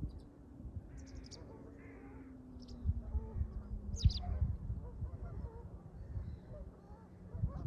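Wild estuary birds giving short, high calls a few times, over the low rumble of wind buffeting the microphone. A faint low hum slowly falls in pitch underneath.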